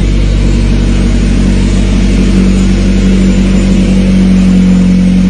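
Honda H22 2.2-litre four-cylinder engine in a Civic running steadily at an even pitch, loud through its exhaust, which is to go to a muffler shop to be done properly. Its deep hum grows stronger a little past the middle.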